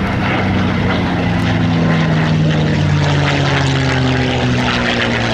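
Propeller aircraft engine droning as the plane passes, its pitch sinking slowly through the pass.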